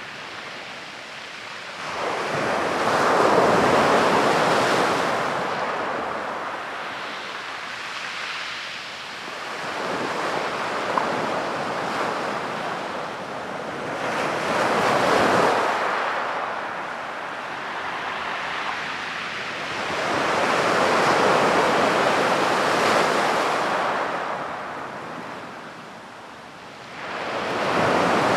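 Ocean waves breaking on a beach, the surf swelling and ebbing about every five to six seconds.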